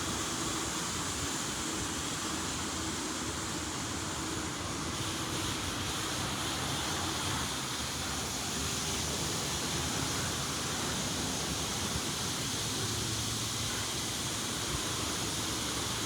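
Steady hiss of water spraying over a car in a LaserWash G5 touch-free automatic car wash.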